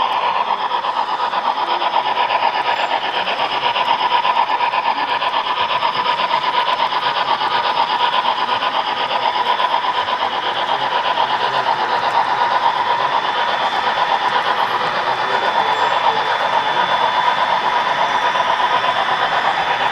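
HO-scale model train running along the layout track: a steady, fast whirring rattle of small wheels and motor that stays even throughout.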